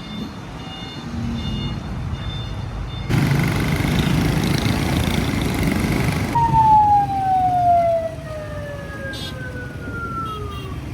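Busy street noise, then a siren winding slowly down in pitch over about four seconds.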